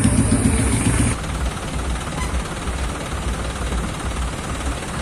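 A loud pulsing sound with a heavy low beat stops abruptly about a second in, leaving a steady outdoor din of crowd and street noise over a low engine rumble.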